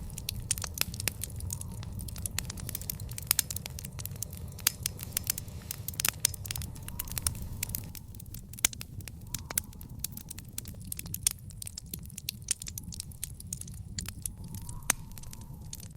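Wood fire in an outdoor fire pit crackling, with frequent sharp pops and snaps over a low, steady rumble.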